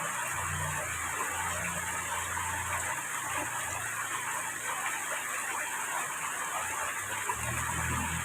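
Heavy rain falling steadily, a continuous even hiss, with a faint low rumble coming and going beneath it.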